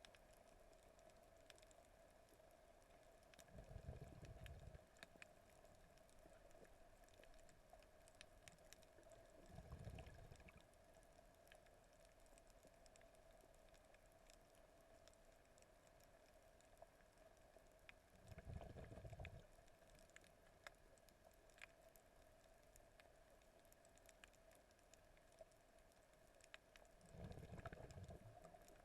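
Faint underwater ambience heard through a submerged camera: a steady low hum with scattered faint clicks and crackles, and four low muffled water surges, each about a second long, spaced several seconds apart.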